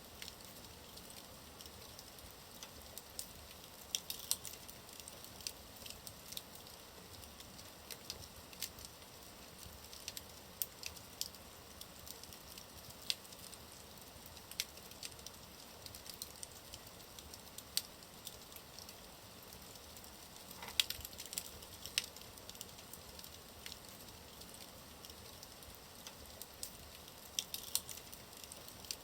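Wood fire burning in a fireplace, with a low steady hiss and irregular sharp crackles and pops, a few louder pops scattered through.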